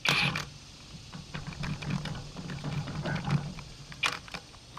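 Socket and wrench working on a seized locking lug nut: light scattered clicks and scraping of metal, with a sharper click about four seconds in.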